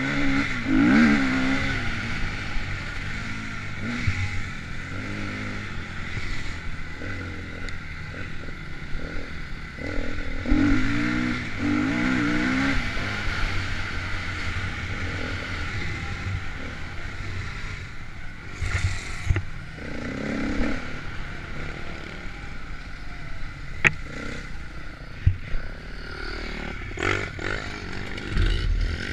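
KTM dirt bike engine being ridden, its pitch rising and falling as the throttle opens and closes. Scattered sharp knocks and clatter run through it, the clearest about 24 seconds in and several more near the end.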